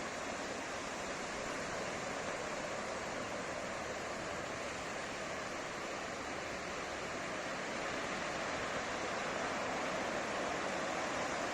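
Ocean surf washing onto a beach: a steady rush of breaking and receding water that swells slightly about two-thirds of the way through.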